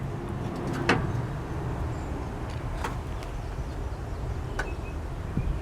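Sheet-metal tractor hood pieces being handled: a few faint, short knocks over low, steady background noise.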